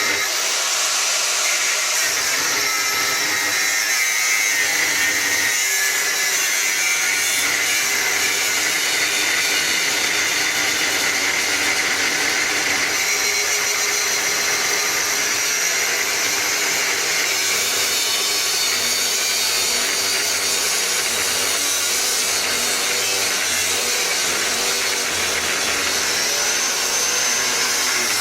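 Angle grinder cutting into 16 mm square steel bar, running steadily under load for the whole stretch.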